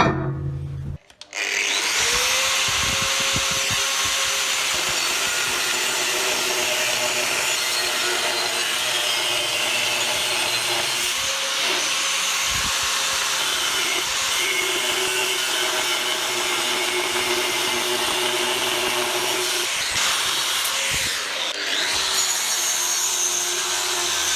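Electric power tool starting about a second in and running steadily under load on metal, with a brief dip near the end.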